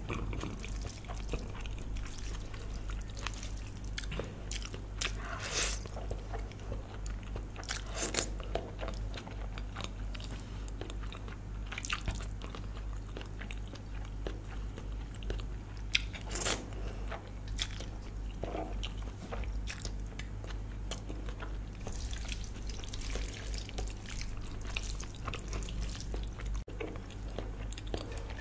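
Close-miked eating sounds: chewing and biting with wet smacks and clicks coming every few seconds. A steady low hum sits underneath.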